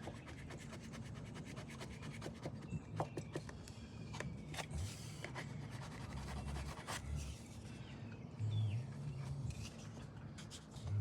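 Scraping and tapping of a putty knife working Bondo body filler, in short irregular strokes.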